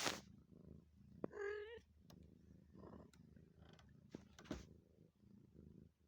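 A domestic cat purring steadily and quietly, with one short, wavering meow about a second and a half in.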